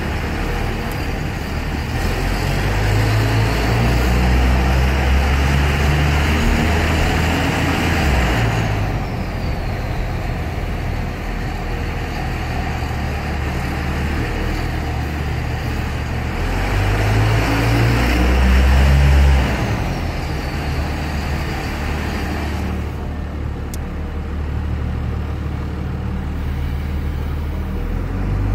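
Dodge Ram 2500's Cummins turbo-diesel running through a 4-inch AFE exhaust, swelling under throttle twice with a high whistle that rises and then glides down as it lets off. In between and afterwards it runs steadier and lower.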